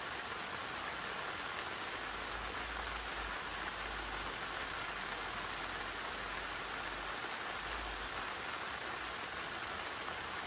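Steady rain falling, an even hiss with no distinct drops standing out; a faint low rumble swells a couple of times underneath.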